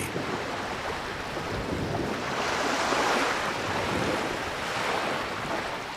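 Ocean water washing like surf, a steady rushing hiss that swells in the middle and eases off toward the end.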